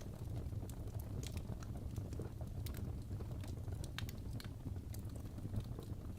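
Wood fire crackling: irregular pops and snaps over a steady low rumble.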